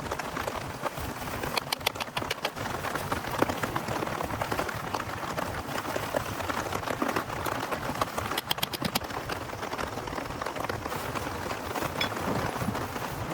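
Steady rain falling, with two short runs of sharp clicks or taps, about two seconds in and again around eight seconds in.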